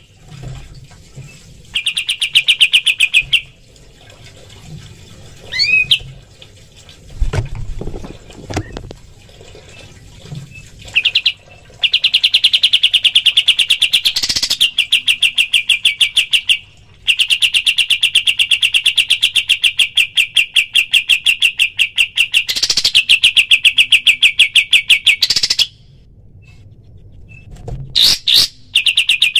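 Kapas tembak bird singing its rapid, machine-gun-like song: long runs of quickly repeated bright notes, broken by short pauses, with a few low thuds around a quarter of the way through.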